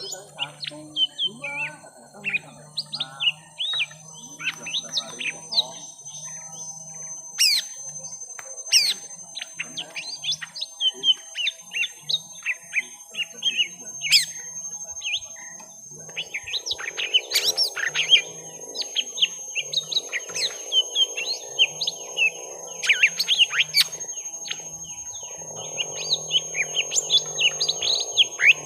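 Young lesser green leafbirds (cucak ijo mini) in a long song duel: dense, rapid runs of high chirps, twitters and sharp notes, with no pause.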